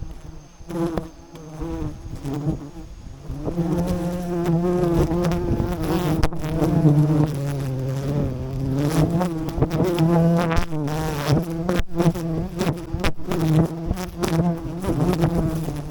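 A swarm of wild honey bees buzzing close by, a wavering drone that swells louder a few seconds in, with scattered short knocks.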